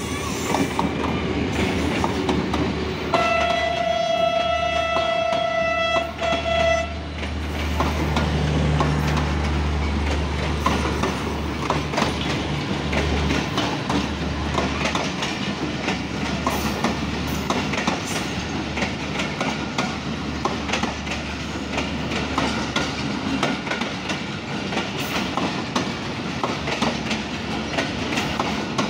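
Pakistan Railways HGMU-30 diesel locomotive passing close with its engine running, sounding its horn in one long blast of about three and a half seconds a few seconds in. The passenger coaches then roll past, wheels clicking over the rail joints.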